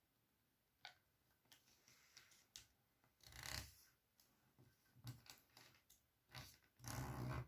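A sheet of paper being handled and folded: scattered small crinkles and clicks, and two longer rustling creases, the louder one near the end.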